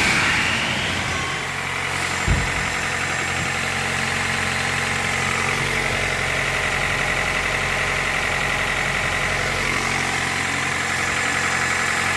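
Toyota 1ZZ-FE 1.8-litre inline-four engine running steadily at idle, getting louder right at the start, with a single knock about two seconds in.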